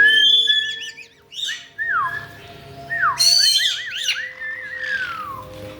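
Caique parrots whistling and calling: clear whistled notes, several quick falling pitch glides and a short warble, with a harsher, louder squawk about three seconds in.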